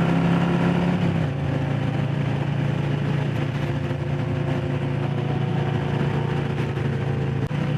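Harley-Davidson Low Rider S's Milwaukee-Eight V-twin engine running at steady low revs while riding, its pitch dropping a step about a second in and then holding.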